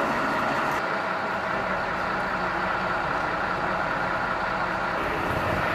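Fire engine idling steadily.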